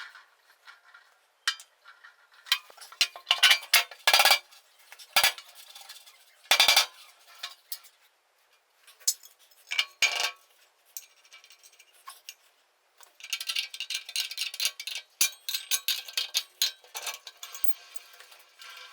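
Metal parts and hand tools being handled at a workbench: scattered clinks and knocks, then about five seconds of scraping or rubbing starting about 13 seconds in.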